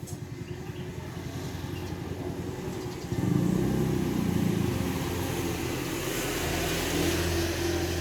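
A motor vehicle's engine running and growing louder, swelling sharply about three seconds in and staying strong, as if passing close by.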